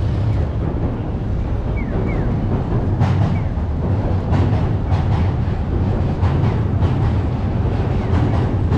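Busy city street ambience: a steady low rumble of traffic, with a few short high chirps and light knocks mixed in.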